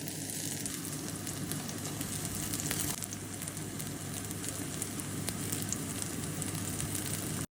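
Chicken kebabs sizzling steadily as they shallow fry in hot oil, with fine crackling pops, cutting off suddenly near the end.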